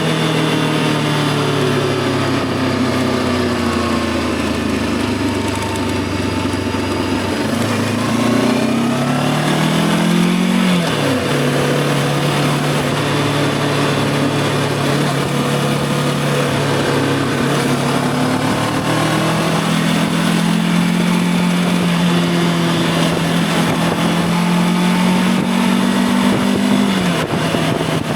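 Voge 525 DSX motorcycle's parallel-twin engine on the move: the note holds low at first, climbs under acceleration and drops sharply at an upshift about eleven seconds in, runs steady, then climbs again to another upshift near the end. Wind and road noise run underneath.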